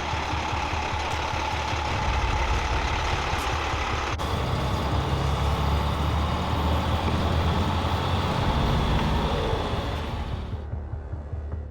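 Heavy truck engine running with a deep, steady rumble that swells toward the middle, then cuts off sharply near the end.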